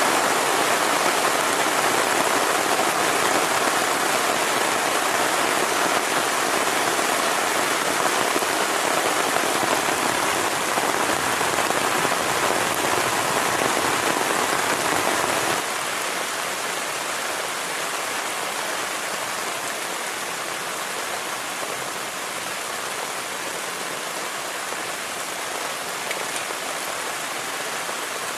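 Heavy rain falling steadily as a dense, even hiss. A little past halfway it abruptly turns quieter and lighter.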